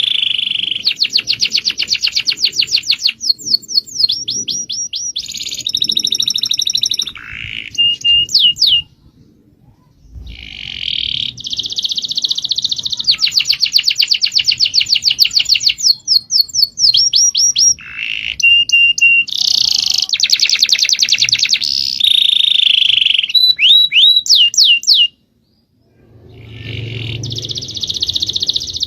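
Small songbirds singing in rapid, high trills and quick series of chirps and short whistled notes, with two brief pauses, about nine seconds in and near the end.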